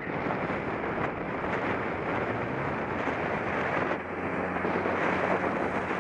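Wind rushing over a cyclist's camera microphone while riding, with road noise; a low motor-vehicle engine hum joins about four seconds in.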